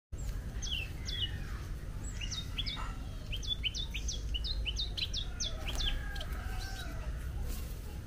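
Small finches (munias) giving a string of short, high chirps, each dropping quickly in pitch, coming thickest in the middle, over a steady low rumble.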